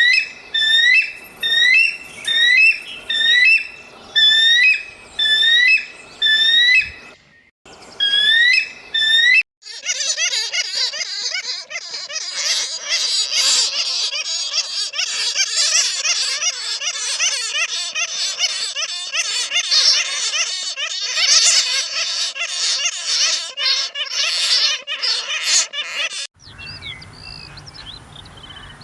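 Animal calls played one clip after another: a repeated rising, chirping call about once a second, then about nine seconds in a dense chorus of many overlapping calls, which gives way near the end to a quieter stretch with a low rumble and faint chirps.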